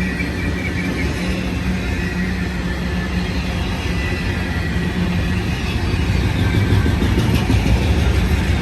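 Freight train rolling past: a steady low rumble of railcars on the rails with a steady engine hum, growing louder near the end.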